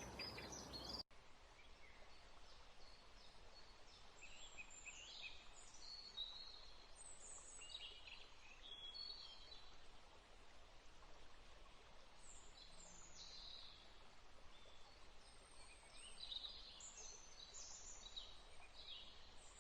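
Faint birdsong: scattered short chirps and trills from several small birds over a quiet, steady hiss.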